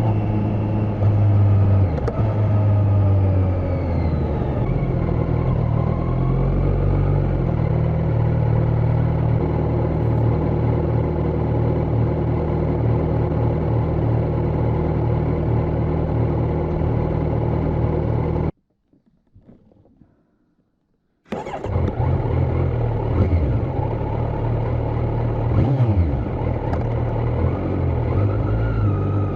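Kawasaki Z900's inline-four engine with a de-catted exhaust, under way. The revs fall and rise over the first few seconds, then hold steady. Past the middle the sound cuts out for about three seconds, then returns with the revs changing again.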